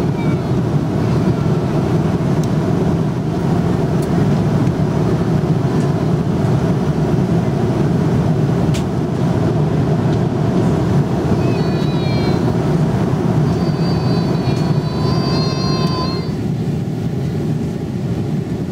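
Steady low roar inside an Airbus A330 airliner's cabin in flight: engine and airflow noise.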